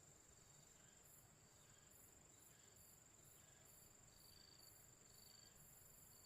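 Near silence with faint insect chirring: a steady high shrill, with softer pulsing trills and a few short high notes.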